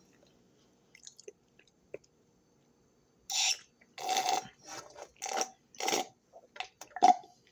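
A person chewing food close to the microphone: a few faint mouth clicks at first, then from about three seconds in a run of short crunchy chews, roughly two a second.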